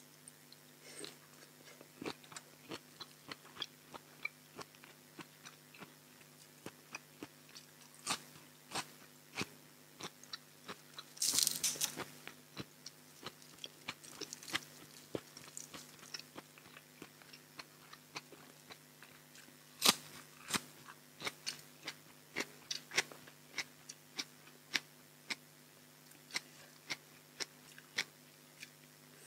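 Close-miked mouth sounds of chewing raw shrimp and crisp fresh greens: many small wet clicks and crunches, with a louder burst of crunching partway through and one sharp crunch later on.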